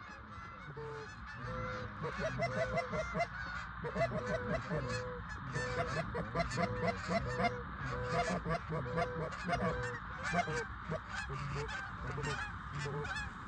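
Many short goose honks overlapping, thickening and growing louder about two seconds in: a flock of Canada geese calling as it circles close in over the decoys.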